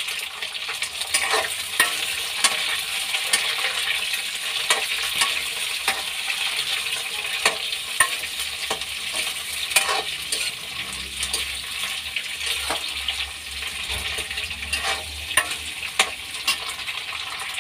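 Green bell pepper pieces sizzling as they shallow-fry in oil in a steel kadhai, a steady hiss, with irregular clicks and scrapes of the spatula against the pan as they are stirred.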